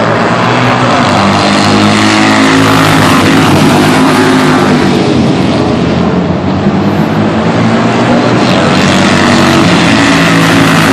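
Superbike racing motorcycles going by at speed, several in succession, their engine notes sweeping up and down as they pass.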